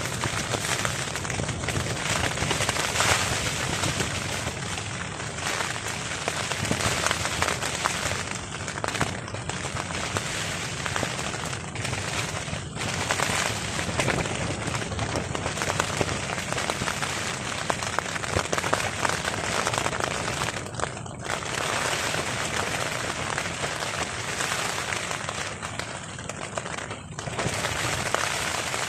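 Heavy rain drumming on a tarp: a dense, continuous crackle of drops hitting the fabric, with a few brief lulls.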